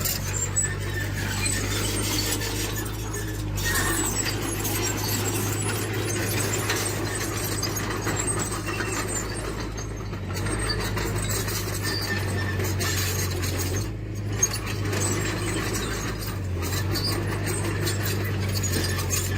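Tracked earthmoving machine working: its diesel engine runs steadily while the steel tracks squeal and clink.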